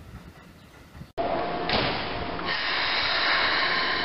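Low train running noise that cuts off abruptly about a second in, then a louder train scene: a steady rumble with a faint steady whine and a short burst of hissing about halfway through.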